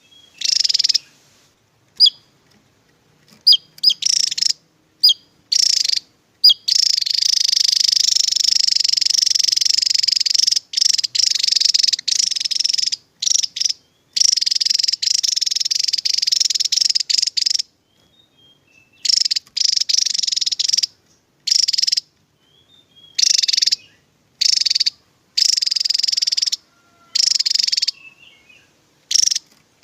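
Javan tesia singing its rapid-fire 'tembakan' song: high, fast, buzzy trills. A few short notes lead into one long unbroken run of about six seconds, followed by bursts of one to two seconds with short pauses between them.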